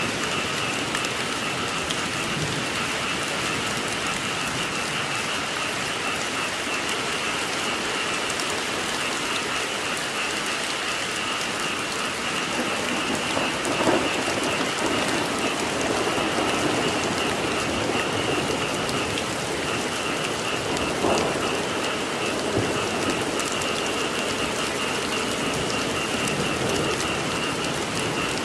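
Steady rain falling, with a constant high chorus of frogs calling behind it. A low rumble of thunder swells through the middle.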